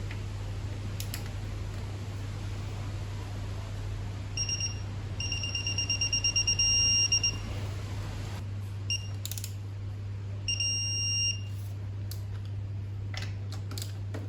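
Electronic beeping from a digital torque wrench: a short beep, then beeps coming faster and faster until they merge into a steady tone as the set torque is reached. A second short beep and another held tone follow, then a few clicks and a sharp knock at the end.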